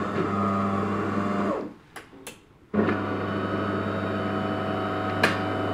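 DeLonghi ECAM 23.210 bean-to-cup coffee machine going through its switch-on cycle: an electric motor/pump hums for about a second and a half, stops, two light clicks follow, then the hum starts again and runs steadily with a sharp click near the end. This is the start-up rinse after the brew group has been refitted.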